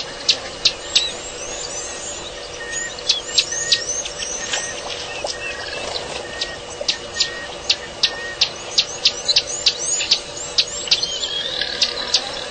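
Birds calling: many short, high chirps, each sweeping downward in pitch, coming several a second over a faint steady hum.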